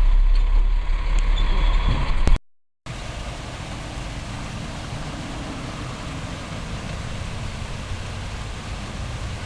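Truck running, heard from inside the cab as a loud low rumble that cuts off abruptly about two seconds in. After a brief dead gap, a quieter steady hiss of road and driving noise.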